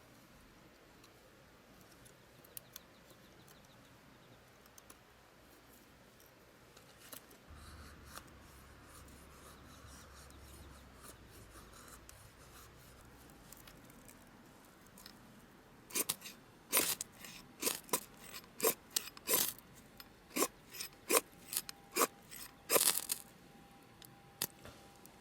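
A quiet stretch, then, about sixteen seconds in, a run of sharp, crisp clicks at roughly one or two a second for about seven seconds.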